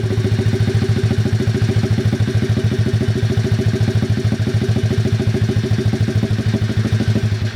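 Apollo 110cc pitbike's single-cylinder four-stroke engine idling steadily with an even, rapid beat, breathing through a newly fitted $20 muffler sealed on with steel putty.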